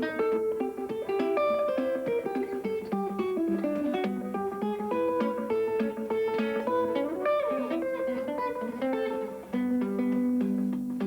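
Guitar played solo in the Muhlenberg thumbpicking style: a steady run of plucked melody notes with a few bent notes a little past halfway.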